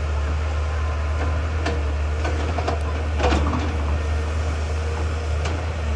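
Excavator engine running steadily, with a few sharp knocks and clanks from the machine working; the loudest cluster comes about three seconds in.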